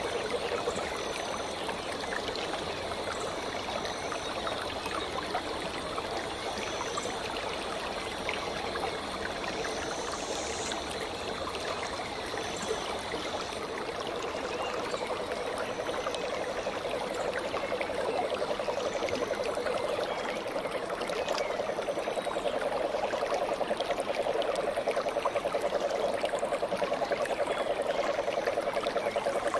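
Stream of running water flowing steadily, with short high calls repeating every second or two and a fast pulsing low note that grows louder in the second half.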